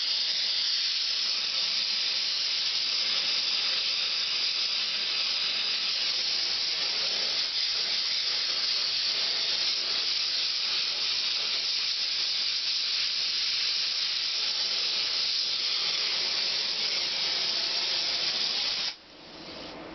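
Gas torch flame hissing steadily while it heats a stuck exhaust joint on a Honda CX500 toward cherry red to free the seized muffler; the hiss cuts off suddenly near the end.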